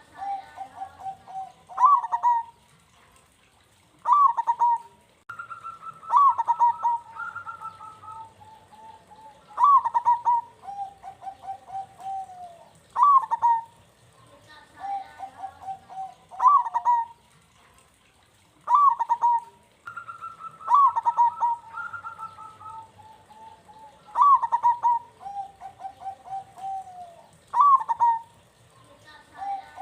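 Zebra dove (perkutut) cooing in repeated phrases: a loud ringing note followed by a run of quick, lower notes, the pattern coming round every three to four seconds.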